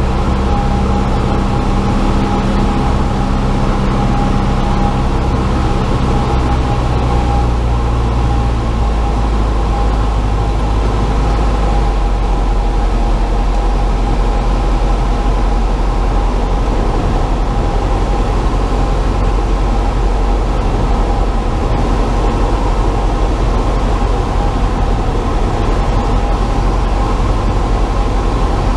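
Cessna 172's engine and propeller heard inside the cabin, its pitch stepping down about six and again about nine seconds in as power is taken off to idle for a simulated engine failure. After that it settles into a lower, steady idling drone with airflow, and a steady high tone runs throughout.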